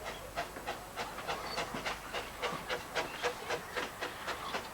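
Dinorwic Quarry Hunslet saddle-tank steam locomotive working a narrow-gauge train, its exhaust chuffing in a steady, even rhythm of about five beats a second.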